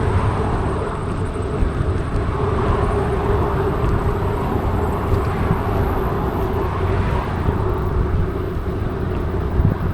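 Mountain bike rolling along a path: steady tyre noise and low wind rumble on the bike-mounted microphone.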